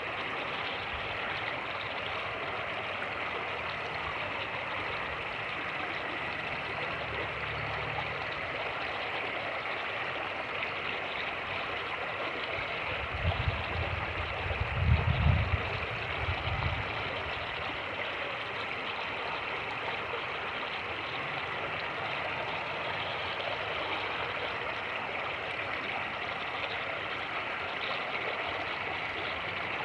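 Fast-moving creek rushing steadily over rapids. Through the middle comes a few seconds of louder, choppy low rumble, typical of wind buffeting the microphone through a wind cover that does not fully block it.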